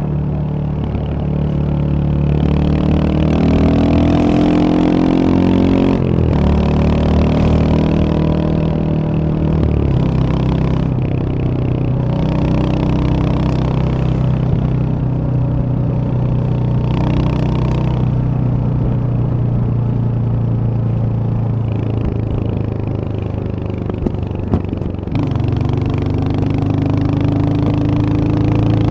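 Royal Enfield Hunter 350's single-cylinder engine running under way, rising in pitch as it accelerates, dropping at gear changes a few times, and holding a steady cruise through the middle.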